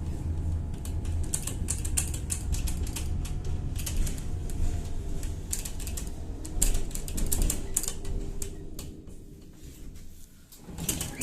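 Tatra-Yug K1M tram heard from on board: a steady low hum from the running gear with rapid, irregular clicking and rattling over it, easing off about eight seconds in.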